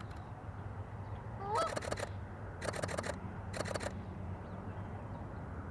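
Canada goose giving a single honk that rises in pitch about a second and a half in, followed by two short bursts of sharp clicks about a second apart.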